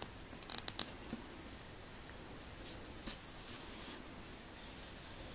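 Orange yarn being drawn through crocheted fabric while a beak is sewn on: a few quick scratchy rasps about half a second in, then longer, softer rasping pulls.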